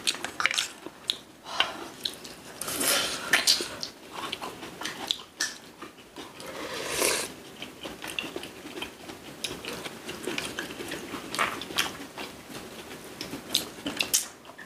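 Close-miked chewing and biting of food, mainly seasoned cockles: many small irregular wet clicks and smacks of eating.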